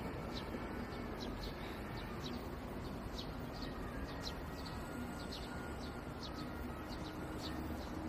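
Small birds chirping repeatedly in short, high, falling notes, two or three a second and unevenly spaced, over a steady background hum of city and stream.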